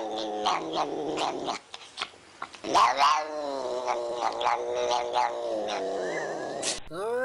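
Domestic cat caterwauling in long, drawn-out yowls. A second, louder yowl starts about three seconds in, falling in pitch and then holding.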